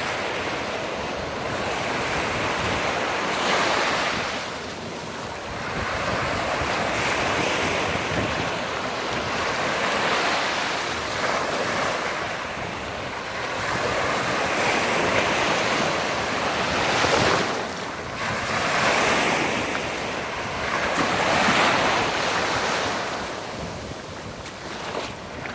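Mediterranean sea waves washing onto the shore, the surf swelling and falling back every few seconds.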